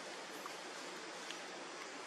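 Steady outdoor background hiss, like flowing water or wind in foliage, with a few faint ticks and a brief high chirp.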